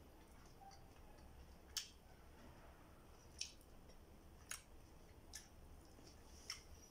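Close-up eating sounds: chewing with wet lip smacks, about five short sharp clicks spaced roughly a second apart.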